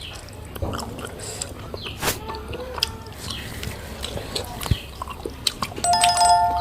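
Close-miked eating: a person chewing and biting food with wet mouth clicks and smacks. Near the end a steady tone with several pitches sounds for about a second.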